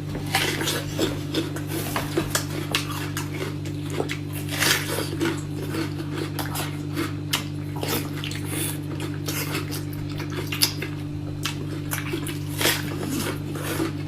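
Cutlery and dishes clinking and scraping in short, irregular clicks during a meal, over a steady low hum.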